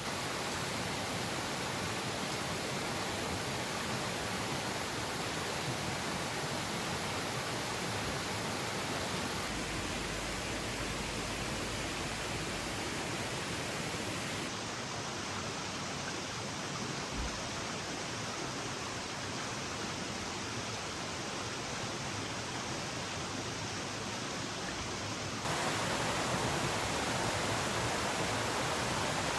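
Steady rushing of flowing water. Its tone changes abruptly about halfway through and again near the end.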